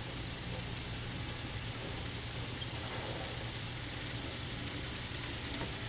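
N scale model diesel locomotives running on the layout, a steady low hum with no change in speed.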